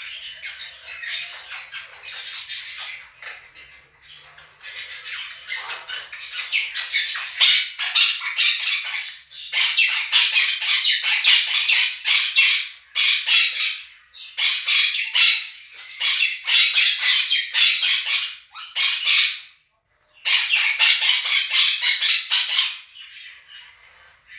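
Two monk parakeets (Quaker parrots) squawking loudly in long runs of harsh calls over the chatter of a budgerigar flock played from a recording. The first few seconds are softer chatter; from about six seconds in, the parrot calls are loud and nearly continuous, with a short break near the end.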